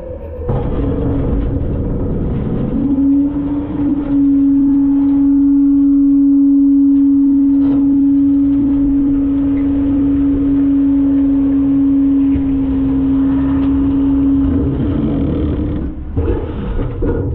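Front-load garbage truck's engine and hydraulics running hard: a steady, loud whine that holds one pitch for about twelve seconds, then drops away near the end.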